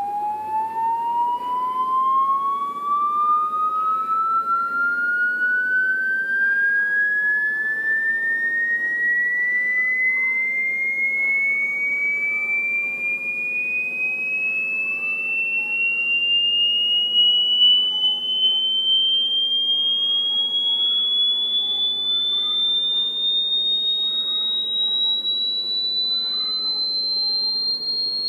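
An electronic test tone rising slowly and smoothly in pitch the whole time, from a mid tone up to a high whistle-like pitch, played as an unbearably annoying sound.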